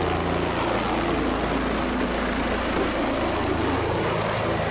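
A helicopter running steadily on the ground after landing, its engine and rotor keeping up an even drone.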